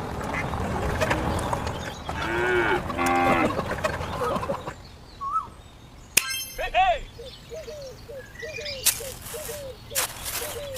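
Animal calls: a longer pitched call about two seconds in, then a run of short, repeated calls, about two a second, in the second half, with a few sharp knocks near the end.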